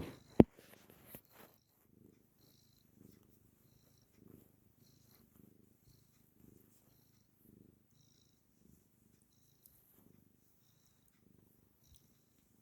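Domestic cat purring steadily, the rumble swelling and easing about once a second with her breathing. A sharp knock sounds just after the start.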